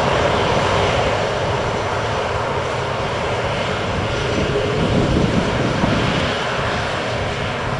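Aircraft engines running with a steady, even noise that neither rises nor falls.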